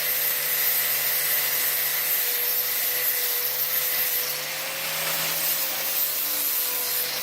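A 4.5-inch angle grinder with a 60-grit flap wheel grinding the steel of an old bolt-cutter handle: a steady motor whine under an even abrasive hiss. The whine sags slightly in pitch and level about halfway through as the wheel is worked against the metal.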